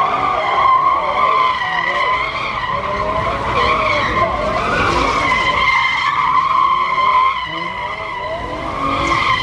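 A car's tires squealing continuously under a sliding or spinning car, with its engine revving up and down underneath.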